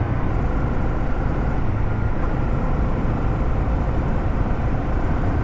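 Motorcycle running steadily at riding speed, a low engine drone under a constant rush of wind and road noise.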